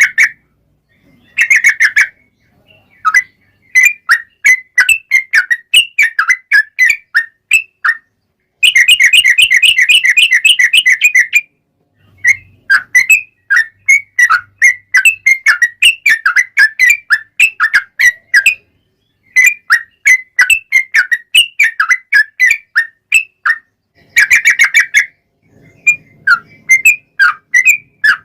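Yellow-vented bulbul (trucuk) singing in bright, chattering phrases of quick bubbly notes, broken by short pauses. Partway through comes a long, fast unbroken trill of about three seconds, the 'ropel panjang' run.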